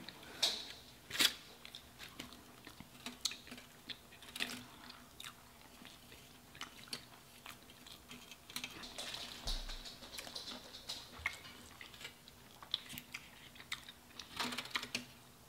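Close-up eating sounds of burgers and fries being bitten and chewed: irregular soft mouth clicks and smacks, with a denser run of them near the end.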